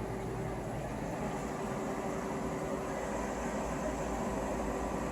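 Steady low hum with an even hiss and a faint held tone, unchanging throughout.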